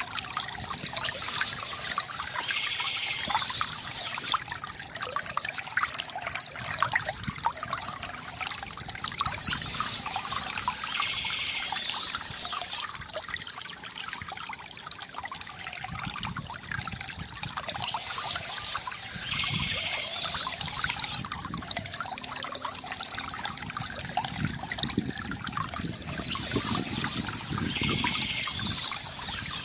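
Small stream trickling and splashing over stones, steady throughout, with a songbird's phrase coming back about every eight seconds.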